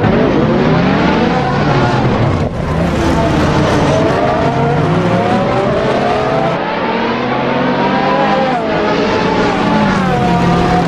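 Race car engines revving hard, their pitch climbing and falling again and again, with abrupt changes about two and a half, six and a half and eight and a half seconds in as one clip gives way to the next.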